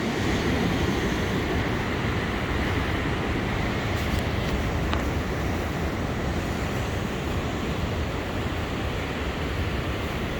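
Steady wind buffeting the microphone over the even wash of ocean surf.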